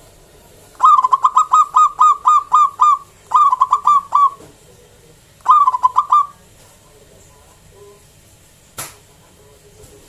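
Zebra dove (local perkutut) cooing in three phrases of quick, staccato repeated notes: a long run, a shorter one, then a brief one. A single sharp click comes near the end.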